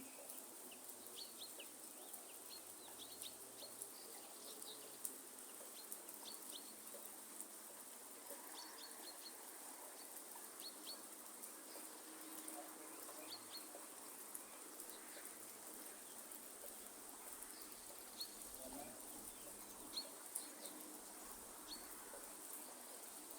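Light rain falling in a forest as a faint steady hiss, with birds giving short, high chirps scattered throughout and a few sharp drip ticks.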